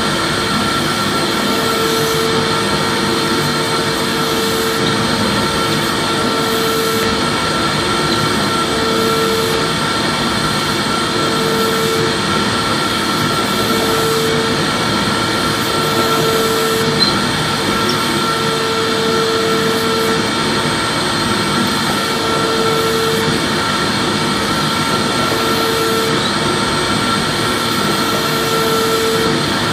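Vacuum cleaner running steadily: an even rush of air with a steady high whine from the motor, and a lower tone that comes and goes about every two seconds.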